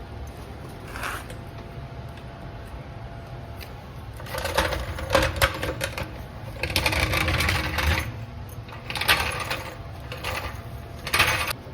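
Stick welder arc crackling and sizzling in four short bursts from about four seconds in, as steel angle iron is tack-welded.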